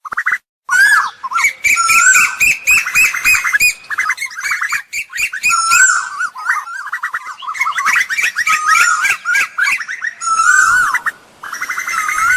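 Asian koel calls repeated one after another: short curved whistled notes alternating with fast chattering runs of rapid notes, a recording meant as a lure call.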